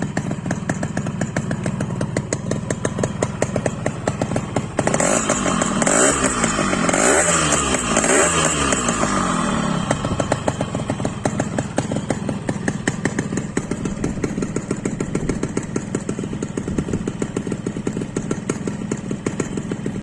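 1992 Yamaha RX-King's two-stroke single-cylinder engine idling, then revved up and down about three times in quick succession from about five seconds in, before dropping back to a steady idle.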